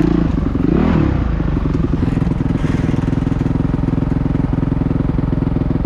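Motocross motorcycle engine running at steady revs, with a brief dip and rise in pitch about a second in before holding steady.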